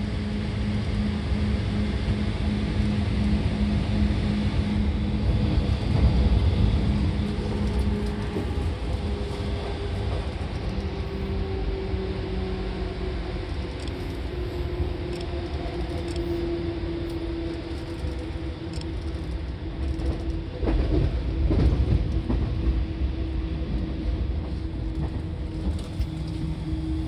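Seibu 2000 series electric commuter train running at speed, heard from inside the car: a steady rumble of wheels on rail with a motor hum that drifts slowly lower in pitch. The rumble grows louder for a few seconds about six and again about twenty-one seconds in.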